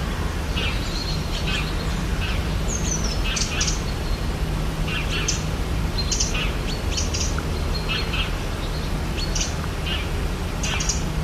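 Rainforest ambience of many birds chirping and calling, short calls scattered throughout, with one falling whistled call about three seconds in, over a steady low background rumble.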